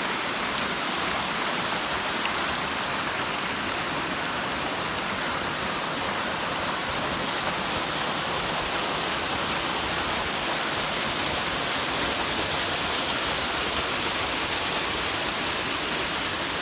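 Rushing water of a stream or waterfall: a steady, even rush that holds its level throughout.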